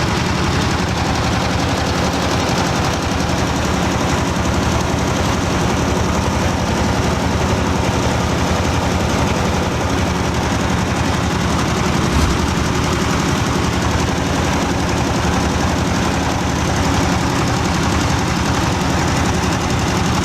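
Rice husk grinding mill running steadily, with a fast, even rattle over a constant motor drone.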